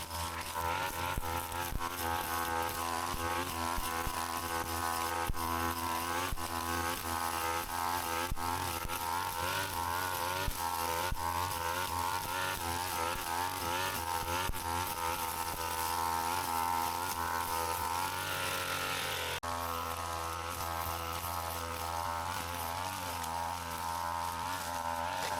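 Brush cutter engine running at high revs, a steady buzz whose pitch wavers up and down as the load changes. Its pitch briefly glides and drops about three quarters of the way through.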